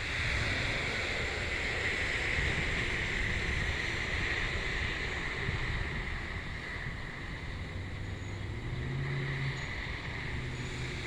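Steady rushing outdoor noise with wind buffeting the microphone in a low rumble; a faint low hum comes in near the end.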